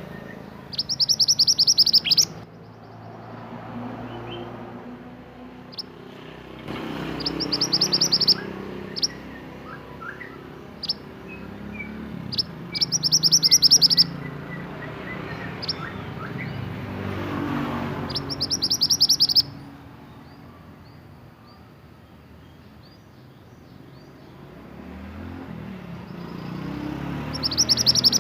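Male mantenan songbird singing: bursts of a rapid high trill about five times, each a second or so long, with short single chirps between. A steady low rumble lies underneath.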